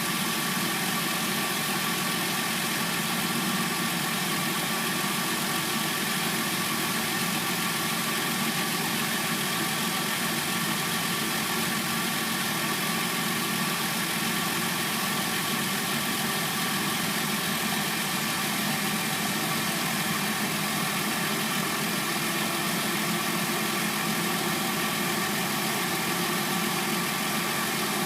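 Hyundai Sonata replacement engine idling steadily.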